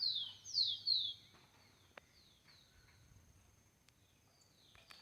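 A bird calling: a quick run of about four loud, downward-sliding whistled notes in the first second, then a few fainter ones, over a faint steady high tone. A single click comes about two seconds in.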